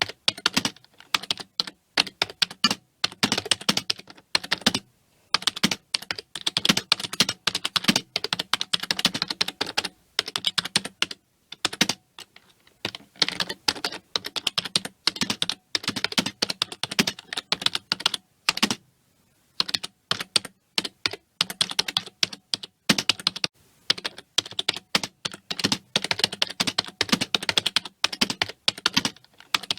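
Continuous fast typing on a computer keyboard: rapid runs of key clicks, broken by brief pauses a few times.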